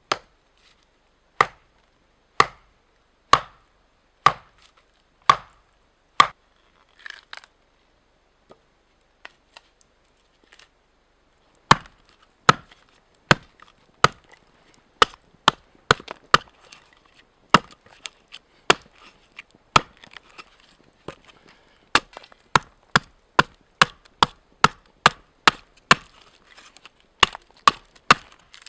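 Repeated chopping strokes of a blade into wood. There are about six blows a second apart, then a pause of several seconds with a few faint knocks, then a quicker steady run of strokes to the end.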